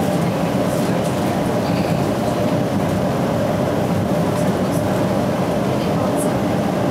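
Metra Electric commuter train running at speed, heard from inside the passenger car: a steady running noise of wheels on rails and the car's motion, with a few faint high ticks.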